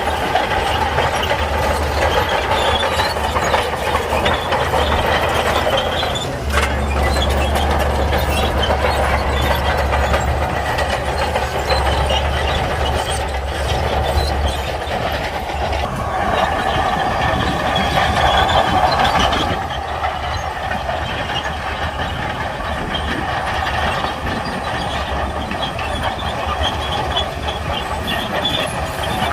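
Shantui bulldozer's diesel engine running steadily, with the clatter of its steel tracks; the sound grows brighter for a few seconds and then eases off about two-thirds of the way through.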